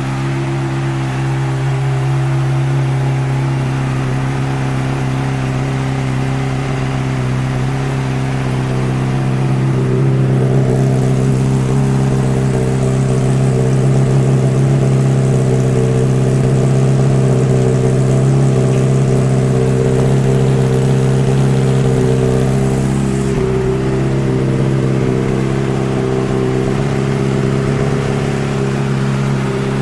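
2007 Honda CBR600RR's 600 cc inline-four engine, breathing through an aftermarket exhaust, idling steadily, a little louder between about ten and twenty-three seconds in.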